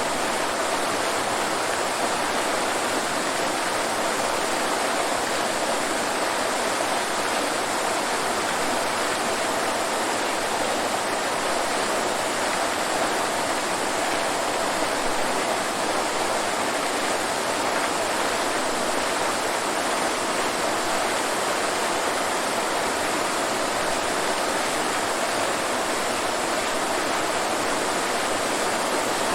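Waterfall: water falling and splashing in a steady, unbroken rush with no changes.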